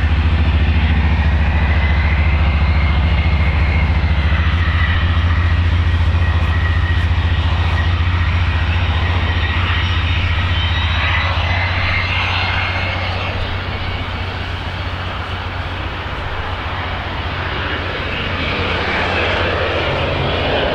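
Jet airliner engines running with a steady high whine that wavers slightly in pitch, over a heavy low wind rumble on the microphone. The sound eases a little past the middle and swells again near the end.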